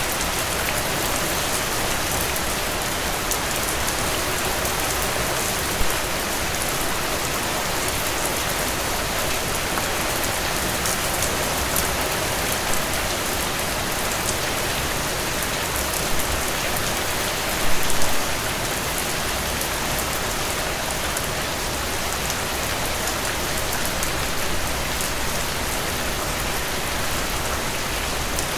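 Heavy rain pouring steadily in a dense, even hiss of drops, with a few louder splatters. The biggest comes about eighteen seconds in.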